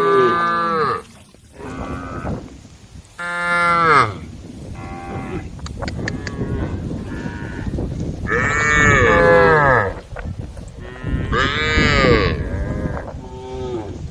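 Several cows mooing, calling to the herd. There are long calls at the start and about 3, 8 and 11 seconds in, with fainter moos between them.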